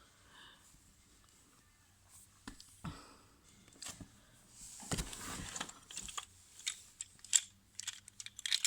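Hard plastic transforming robot toy being handled: scattered small clicks and rattles of its parts, with a brief rustle, growing busier near the end.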